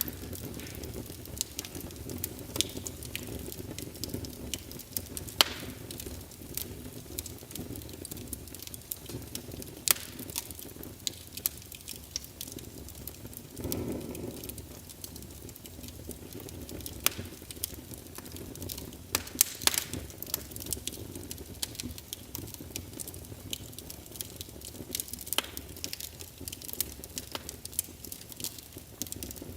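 Small fire in a fireplace crackling: irregular sharp pops over a low, steady rush of flame, with a brief louder surge about halfway through.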